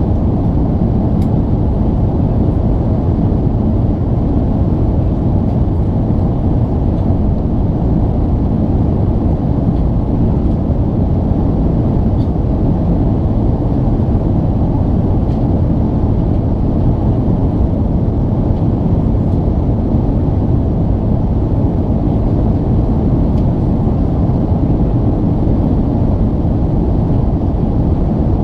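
Steady low rumble of engine and airflow noise inside the passenger cabin of an Airbus A380-861, whose engines are Engine Alliance GP7200s, while airborne after takeoff.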